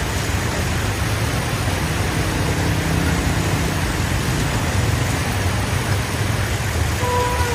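Steady street traffic: motor vehicle engines running under a constant hiss. Near the end a short tone sounds and dips in pitch.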